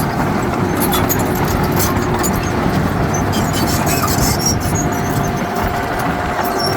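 Heavy diesel earthmoving machinery running steadily under load, a constant low rumble with a steady engine tone and scattered metallic clicks and rattles.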